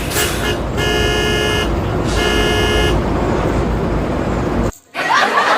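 Cartoon car-horn sound effect honking three times, each honk under a second, over a steady engine rumble. The rumble cuts off suddenly near the end.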